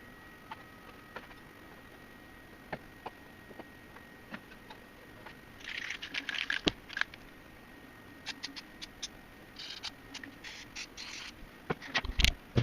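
Hand work on a metal key duplicating machine: scattered light clicks, two spells of quick scratchy rattling of small metal parts, and a few louder knocks near the end.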